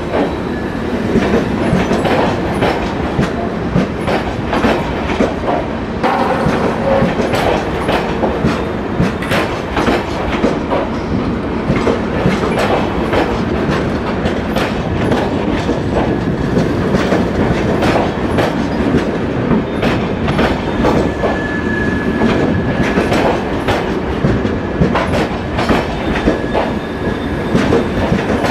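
Passenger coaches of an arriving express train roll past close by, with a steady rumble. Their wheels clack over the rail joints in an irregular run of clicks.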